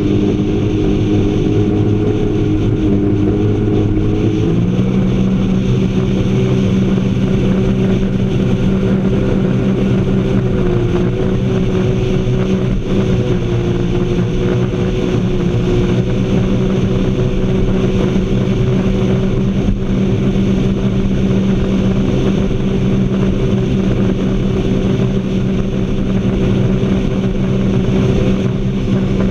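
Watercraft engine running steadily at speed on open water, its pitch stepping up about four and a half seconds in and then holding.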